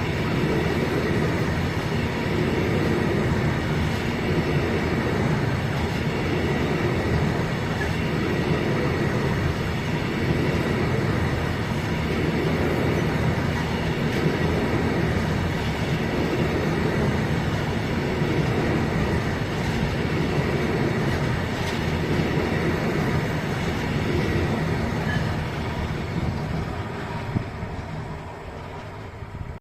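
A train running past on the track: a loud, steady rumble of wheels on rails that eases off over the last few seconds and then cuts off suddenly.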